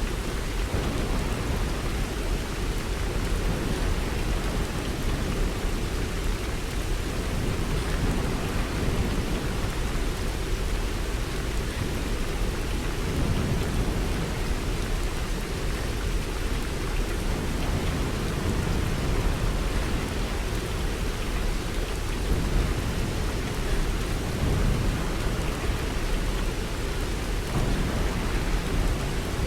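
Steady rain falling, with a continuous low rumble of thunder underneath that swells and eases slowly.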